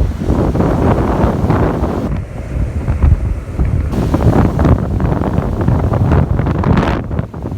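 Wind buffeting the microphone in uneven gusts, with ocean surf washing underneath.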